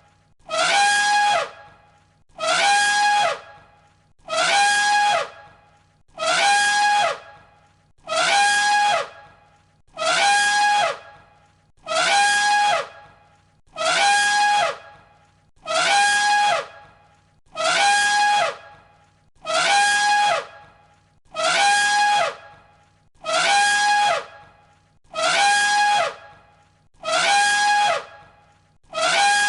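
The same elephant trumpet call repeated on a loop, about one call every two seconds. Each call lasts about a second and falls in pitch.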